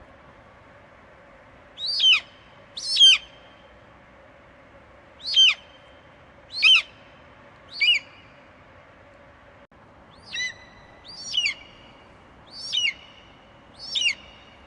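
Eagle screeching: nine short, high calls in a loose series, each sliding down in pitch, over faint steady background noise.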